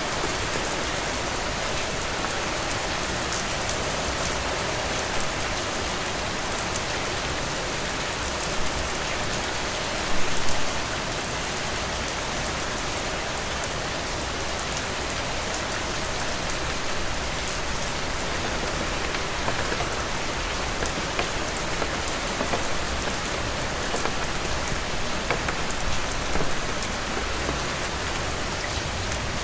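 Heavy rain falling steadily, a dense even hiss with scattered drops ticking through it. A brief louder spatter stands out about ten seconds in.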